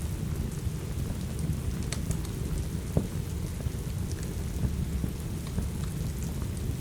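Steady rain with a low, deep rumble, under a crackling log fire: scattered sharp pops and snaps, the loudest about three seconds in.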